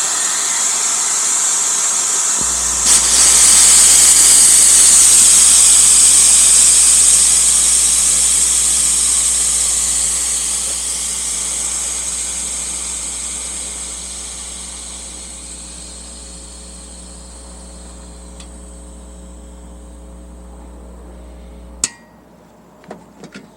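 Compressed air hissing out of a Bostitch 6-gallon air compressor's tank through an opened valve. The hiss jumps louder about three seconds in, then fades slowly as the tank pressure drops. It ends with a sharp click near the end, followed by a few light metal clinks.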